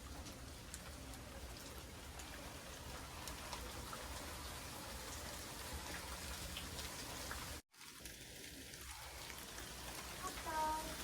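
Steady rain with scattered fine drop ticks. The sound cuts out for an instant about two-thirds of the way through, and a short pitched cry sounds near the end.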